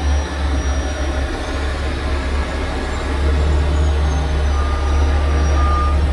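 Heavy truck's diesel engine running steadily as a deep, even rumble, with a faint thin whine over the second half.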